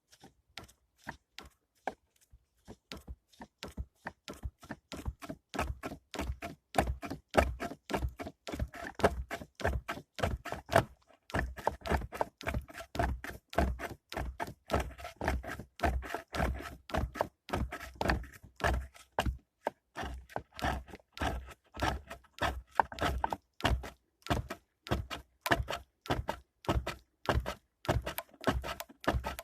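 Steady, rhythmic run of dull wooden knocks, about three a second, starting faint and growing louder over the first few seconds.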